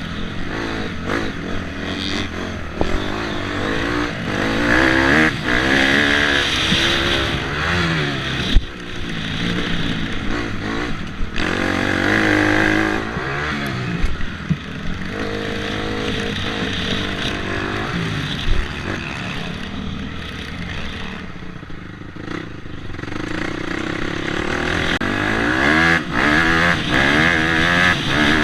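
Dirt bike engine being ridden hard, its pitch repeatedly climbing as the throttle opens and dropping back on shifts and when the throttle closes. A few sharp knocks come in the middle.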